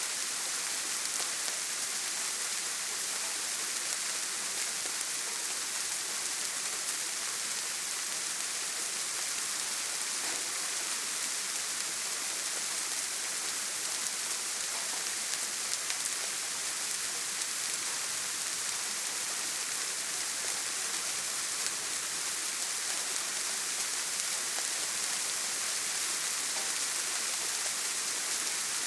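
Steady heavy rain falling on a tin roof, an even hiss of many fine drops with no thunder.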